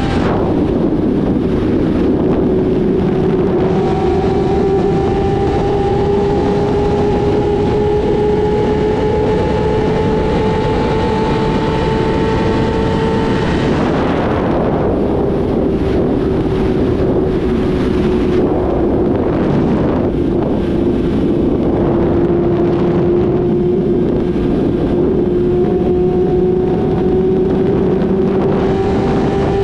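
Yamaha YZF-R6 inline-four sport bike engine with a full aftermarket exhaust system, ridden at speed: its note holds and slowly climbs, drops abruptly about halfway through, then climbs slowly again. Heavy wind rush on the microphone throughout.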